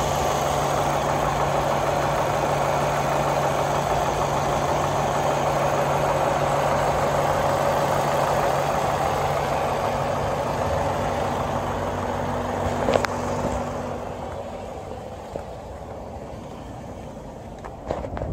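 Car engine idling with the hood open, a steady hum. About 13 seconds in there is one sharp click, after which the engine sound drops to a lower level, with a few knocks near the end.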